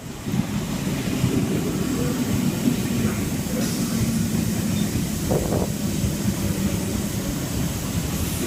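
Sydney Trains electric passenger train running through the station: a steady rumble of wheels on rail with a low, even hum.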